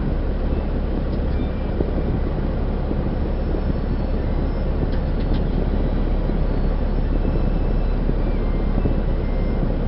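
Steady low rumble of a truck's engine and road noise heard from inside the cab while driving, with a couple of faint clicks about five seconds in.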